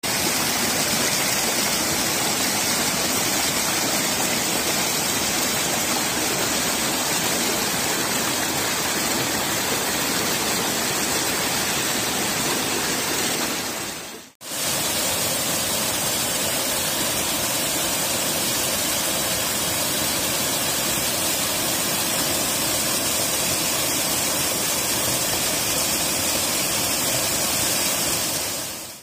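Flowing water rushing steadily and loudly. About halfway through it fades down for a moment and comes straight back.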